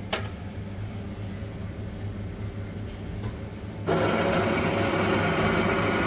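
Buffet coffee machine: a click, then a low hum, then about four seconds in the machine starts up with a louder, steady mechanical whirring as it makes a drink.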